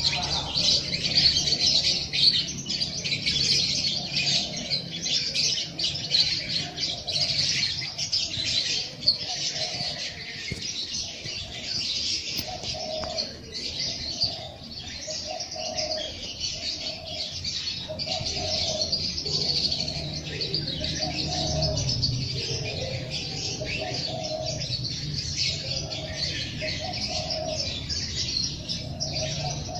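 A chorus of many small songbirds chirping and twittering without a break. From about halfway in, a lower call repeats roughly once a second beneath them.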